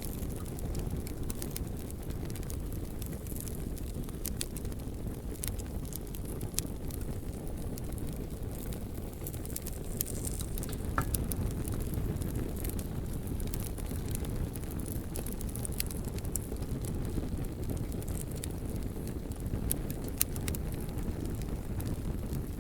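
Bonfire burning with a steady low rumble of flames and scattered sharp crackles and pops from the burning logs.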